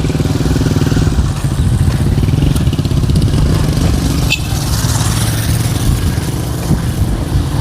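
City street traffic: motor vehicle engines running close by in a steady, loud rumble, with a brief high-pitched squeak about halfway through.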